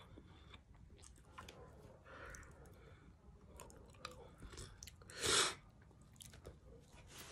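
A person chewing a mouthful of cornstarch: soft crunching and small wet clicks from the mouth, with one brief, louder rush of noise about five seconds in.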